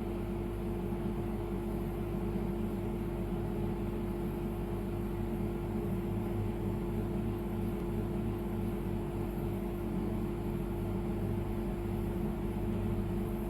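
Air-conditioning service station running steadily, its compressor giving an even hum with one steady tone.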